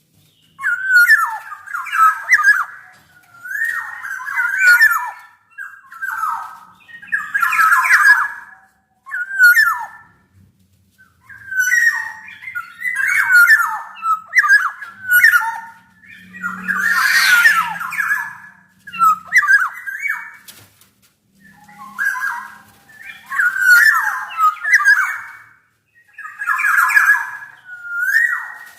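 Black-naped oriole (kepodang emas) singing in short bursts of whistled and harsh notes, repeated every couple of seconds with brief pauses between them.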